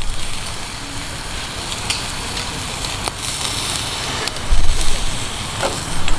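Wood campfire burning with a steady hiss and a few sharp crackling pops. A loud low rumble comes about two-thirds of the way through.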